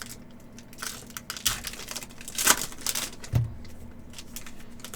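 Upper Deck hockey card packs being torn open and their wrappers crinkled, in irregular crackling bursts as the cards are handled. A short dull thump comes a little after three seconds in.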